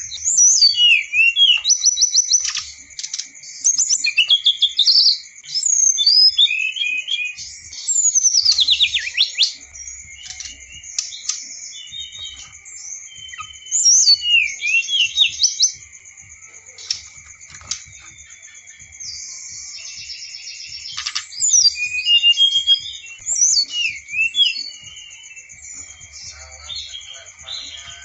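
A songbird singing a varied run of chirps, whistles and fast trills, in bursts with short pauses.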